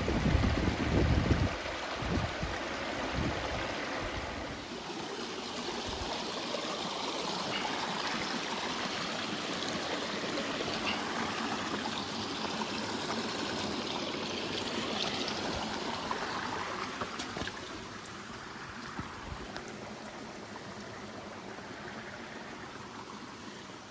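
Water running in a stream with a steady rushing and trickling, growing quieter about two-thirds of the way through. Wind buffets the microphone in the first couple of seconds.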